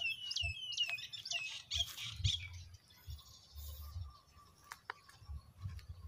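A bird chirping: a quick run of short, high, downward-sliding notes over the first two seconds or so, then fading to a few faint ones. Low rumbles on the microphone come and go, with a couple of light clicks near the end.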